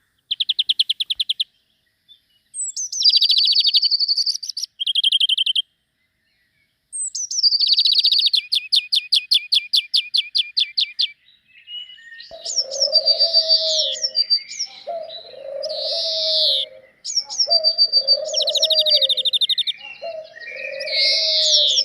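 Small songbirds singing long, rapid trilled phrases, each a few seconds long and separated by short pauses. From about halfway, a dove coos over and over at a steady pace beneath the continuing trills and twitters.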